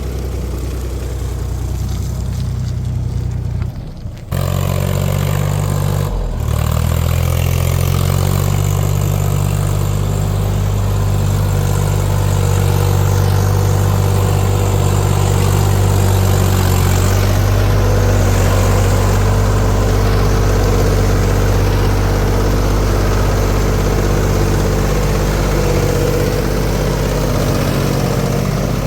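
Heavy diesel engine of an earth-moving machine or tractor running steadily. The sound breaks off sharply about four seconds in and again briefly about six seconds in, then carries on louder with a slight rise in pitch, as if under load.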